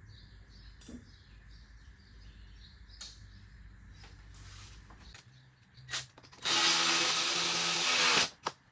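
Light clicks of parts being handled. Near the end, a cordless power tool gives a short blip, then runs steadily for a little under two seconds and stops.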